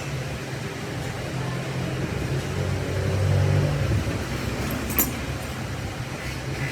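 A machine hum, low and steady, that swells for a second or so about three seconds in, with one sharp click about five seconds in.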